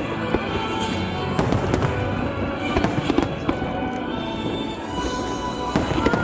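Aerial fireworks bursting and crackling in quick succession, several sharp bangs a second, with music playing beneath them.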